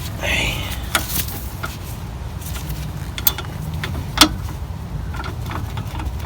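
A 17 mm socket on a breaker bar clinking against a brake caliper carrier bolt while the bolt is being broken loose: a few sharp metallic clicks and knocks, the loudest about four seconds in, over a steady low hum.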